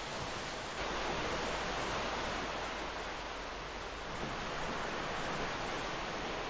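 Ocean surf washing onto a beach: a steady rushing wash that swells slightly about a second in and again about four seconds in.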